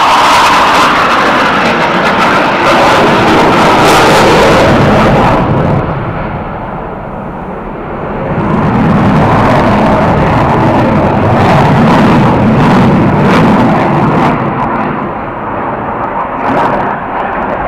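CF-18 Hornet fighter jet's twin turbofan engines, very loud as the jet passes. The sound dips about six seconds in, swells again with a deeper rumble, and fades near the end.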